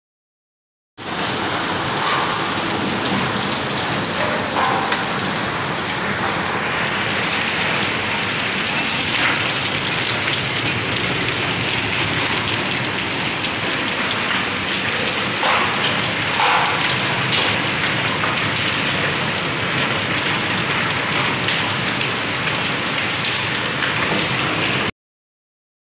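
Heavy rain mixed with hail coming down hard, a dense steady hiss with a few sharper hits. It cuts in abruptly about a second in and stops just as suddenly about a second before the end.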